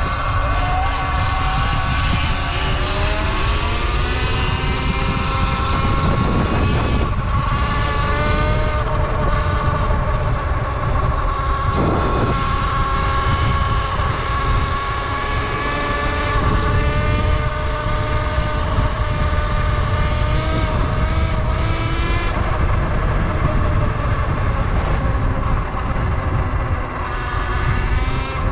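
Sur Ron electric dirt bike with a modified BAC4000 controller riding, its motor whine rising and falling in pitch with throttle and speed. Heavy wind rumble on the microphone underneath.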